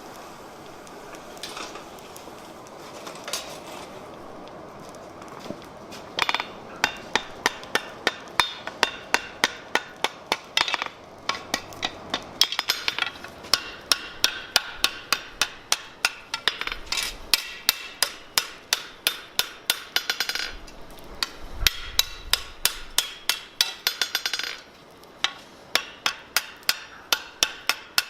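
Blacksmith's hammer striking hot steel on an anvil. It sets in about six seconds in as a run of quick, regular blows, about three a second, with a few short pauses between runs.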